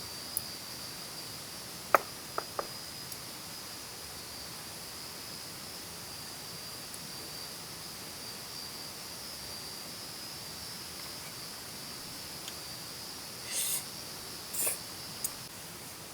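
Insects, crickets or bush crickets, singing a steady high trill. About two seconds in come one sharp click and two lighter ones, and near the end two brief rustles.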